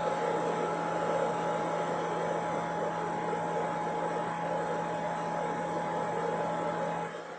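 Handheld hair dryer running with a steady whir and motor hum, dropping in level just before the end.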